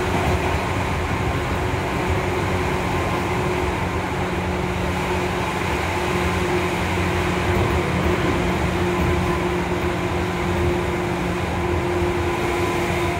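Cabin running noise of a Seibu 2000 series electric commuter train in motion: a steady rumble of wheels on rail with a low hum and a faint higher whine held at an even pitch.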